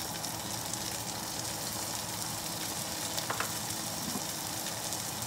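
Chopped onions and minced garlic sizzling in a hot frying pan, a steady even hiss, with a couple of light ticks about three seconds in.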